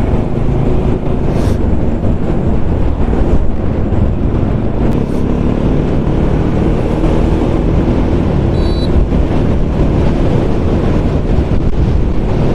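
Motorcycle engine running at a steady cruise while riding, with heavy wind rushing over the microphone.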